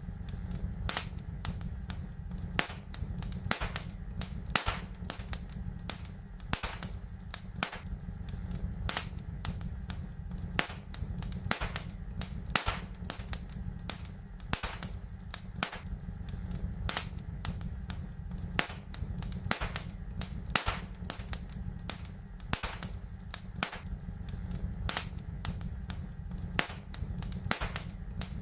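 Fire crackling in a fireplace: irregular sharp pops and snaps, several a second, with a louder crack about every two seconds, over a steady low rumble.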